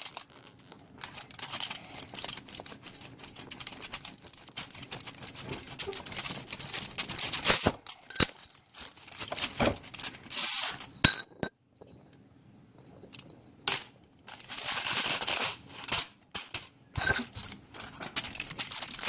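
Aluminium foil crinkling and rustling as clay is pressed and rolled out on it, in irregular bursts with a few sharp clicks and knocks, quieter for a couple of seconds past the middle.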